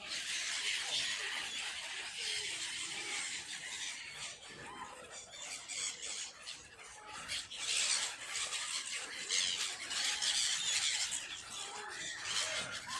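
A crowd of birds calling over one another at a feeding, a dense chatter of high-pitched cries that swells a little around the middle and again later on.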